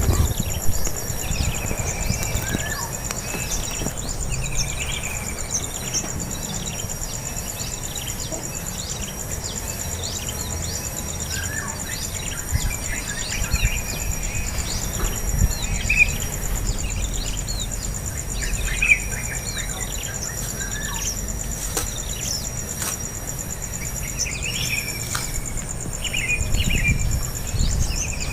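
Birds chirping again and again in short high calls over a steady, high-pitched insect buzz, with a low rumble underneath.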